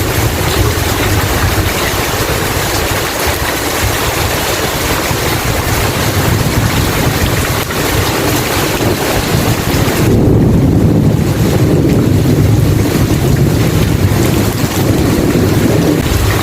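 Heavy rain falling steadily over a deep low rumble of thunder; about ten seconds in the rumble swells and rolls on louder.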